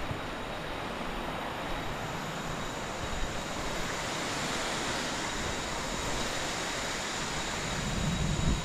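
Steady rush of falling and flowing water at a waterfall, an even hiss.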